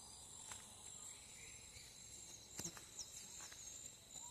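Faint evening chorus of insects, a steady high-pitched trilling, with a few sharp clicks and brief high chirps in the middle.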